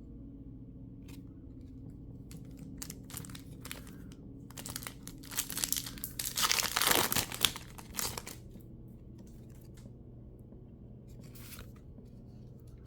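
Mini Pokémon booster pack wrapper being torn open and crinkled: scattered crinkles, then a loud stretch of tearing and crinkling in the middle, and one more short crinkle near the end.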